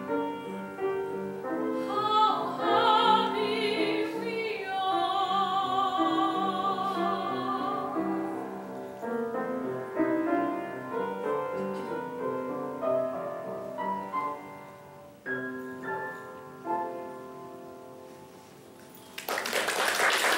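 Classical singing with vibrato over piano, ending on a long held note; the piano carries on alone with separate notes that fade away, then an audience breaks into applause near the end.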